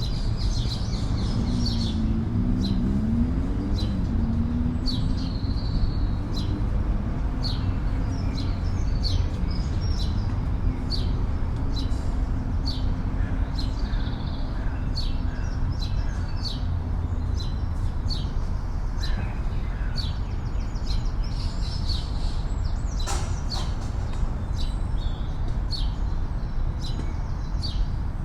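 Small birds chirping repeatedly in quick, high notes over a steady low rumble of city traffic. A low engine drone passes through the first half, and there is a single sharp click about 23 seconds in.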